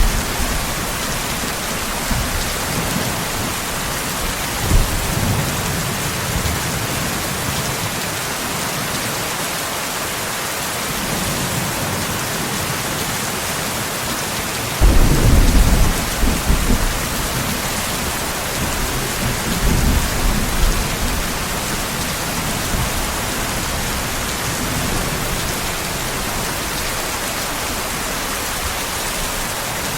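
Steady heavy rain with thunder rumbling under it; the loudest roll of thunder comes in suddenly about halfway through and fades over a couple of seconds, with fainter rumbles before and after.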